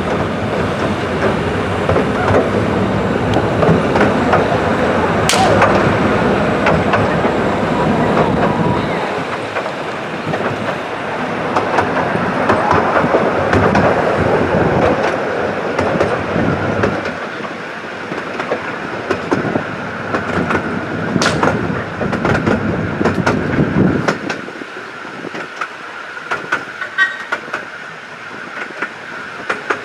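A 12¼ in gauge miniature railway train rolling along the track, heard from on board: a steady rumble and clatter of wheels with a couple of sharp clicks. The low rumble thins out in the second half.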